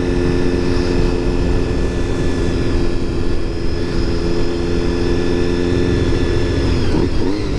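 Honda motorcycle engine running at a steady pace while riding, with low wind rumble over the microphone.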